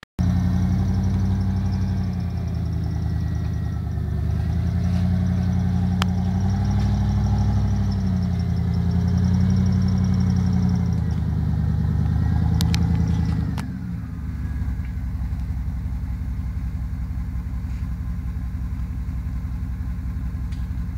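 Off-road 4x4's engine working hard, its pitch rising and falling as the throttle is worked. About two-thirds of the way through it drops to a lower, steadier run.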